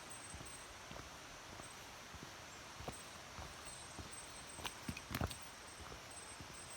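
Faint, steady rush of a shallow mountain stream, with scattered small clicks and knocks and a short cluster of louder knocks about five seconds in.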